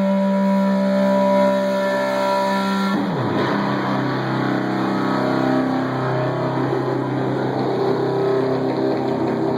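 Live stoner metal band playing heavily distorted electric guitar and bass: a held, droning chord that slides down in pitch about three seconds in and gives way to busier riffing.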